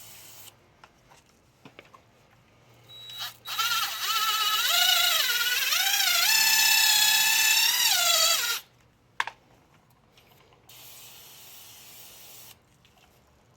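Power drill spinning a nylon scrub brush attachment for about five seconds, its motor whine wavering up and down in pitch, then stopping.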